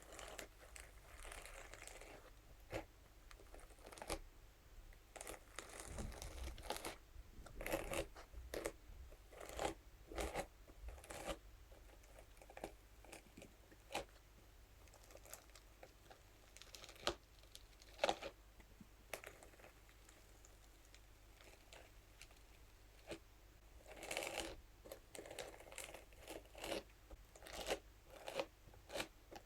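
Scalp massage brush scratched and tapped over a crinkly material: irregular crinkling and crunching with scattered sharp taps. It comes in busy clusters, with a sparser stretch in the middle.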